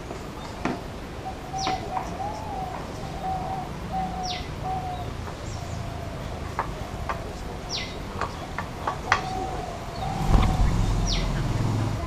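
Wild birds calling: a short high whistle that sweeps sharply down, repeated four times about three seconds apart, over a lower wavering call, with a few sharp clicks between. A burst of low rumble comes near the end.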